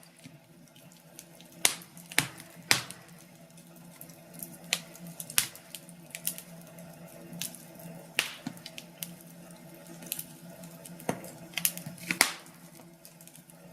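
Wood fire burning in a fireplace, crackling with irregular sharp pops, a few louder ones standing out, over a faint steady hum.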